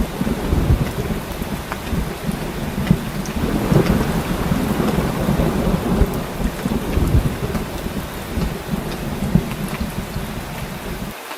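Heavy rain falling steadily, with a low, rolling thunder rumble under it that swells and fades; near the end the low rumble cuts out abruptly.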